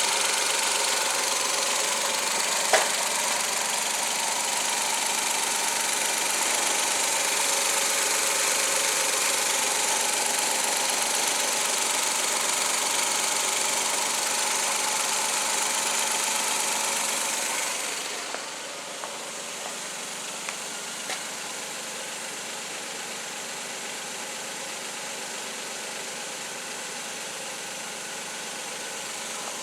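Suzuki K6A three-cylinder kei-car engine running steadily, then turning noticeably quieter about two-thirds of the way through and running on at the lower level. A single sharp click a few seconds in.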